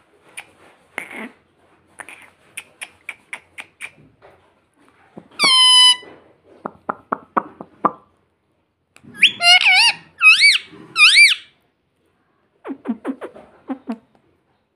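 Pet ring-necked parrot vocalising: runs of rapid clicking chatter, a single long shrill call about five seconds in, and three quick rising-and-falling squawks around ten seconds in.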